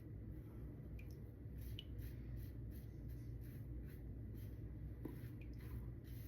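Lambda Ares v2 open-comb safety razor scraping through lather and stubble on the first pass. It makes a quick series of short, faint, scratchy strokes.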